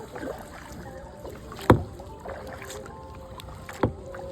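Kayak paddling: two sharp knocks, the louder one about a second and a half in and another near the end, over a faint wash of water.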